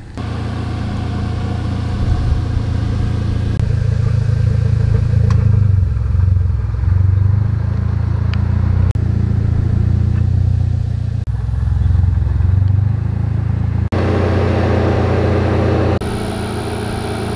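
Turbocharged 4B11T four-cylinder engine of a modified Mitsubishi Lancer idling, a steady low rumble with no revving. The tone shifts abruptly a few times.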